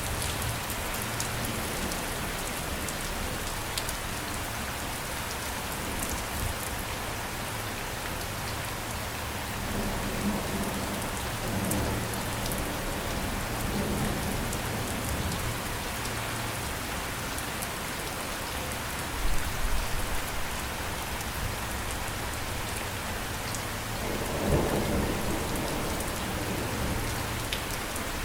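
Steady rain falling, with thunder rumbling several times and a sharper clap about two-thirds of the way through.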